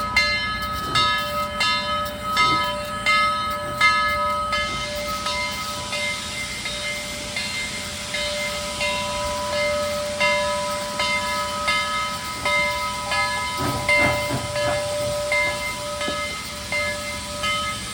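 Locomotive bell ringing steadily, about one and a half strokes a second, over the hiss and rumble of the train.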